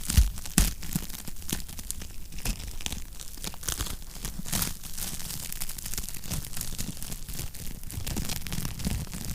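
Wood fire crackling in a fireplace: irregular pops and snaps, the two loudest just after the start, over a low steady rumble.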